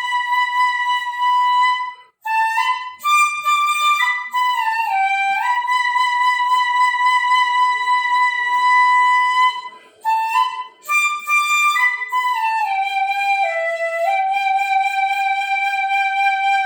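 Bangdi, a high Chinese bamboo flute, playing a slow solo melody: long held notes joined by sliding bends in pitch, with two short breath breaks, about two seconds in and about ten seconds in.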